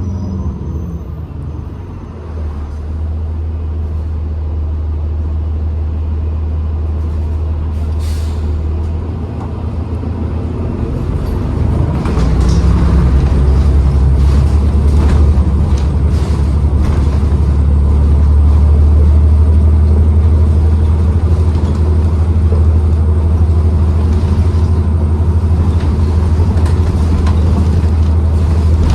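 2012 New Flyer XDE40 diesel-electric hybrid transit bus running, a steady low drone that grows louder about twelve seconds in as the bus works harder, with a few short clicks and knocks over it.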